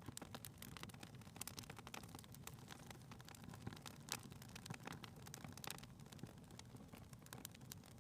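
Faint wood fire crackling in a fireplace: irregular small pops and snaps over a low, steady rumble.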